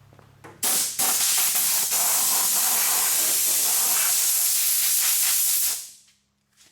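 Heat gun blowing hot air onto a plastic wheel flare to soften it so that it molds to the body: a loud, steady rushing hiss that switches on about half a second in and winds down near the end.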